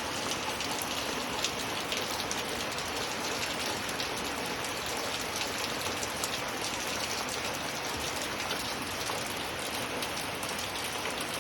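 Steady rain: a dense, even hiss dotted with the quick ticks of many separate drops striking.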